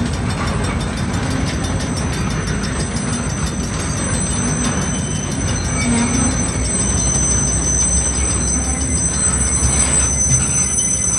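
Freight boxcars rolling past on steel wheels: a steady rumble and clatter of wheels on rail, with a thin, high-pitched wheel squeal that grows clearer in the second half.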